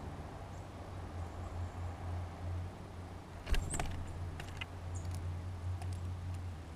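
Small birds at a feeder: a cluster of sharp taps and clicks about halfway through, then a few more, with a couple of brief high chirps, over a steady low hum.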